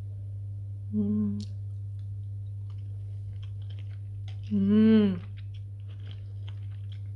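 A person chewing a mouthful of fish stew while tasting it, with small wet mouth clicks. Two closed-mouth hums of approval come through: a short one about a second in, and a longer, louder one that rises and falls in pitch near the middle. A steady low hum runs underneath.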